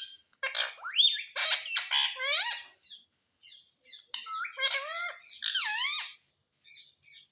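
Pet parrot vocalizing: a rapid string of high-pitched, wavering squawks and squeaky chatter, then a pause of about a second and a second run of calls.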